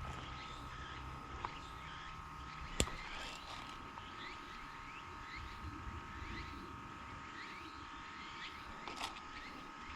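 Forest ambience: a steady high tone under a string of short rising chirps, about two a second, with one sharp click a little under three seconds in and a fainter one near the end.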